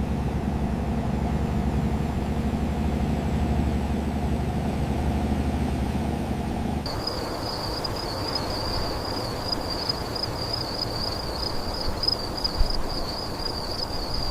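Steady low mechanical rumble. About seven seconds in it gives way to a hiss with a high, slightly wavering steady tone.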